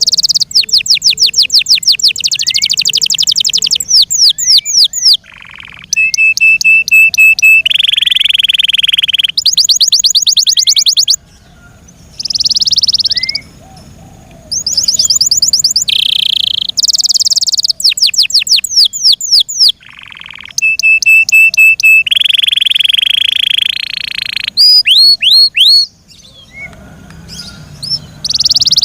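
F1 Yorkshire-cross canary singing: fast trills of rapidly repeated notes alternating with quick sliding whistles and steady held rolls, broken by a few short pauses.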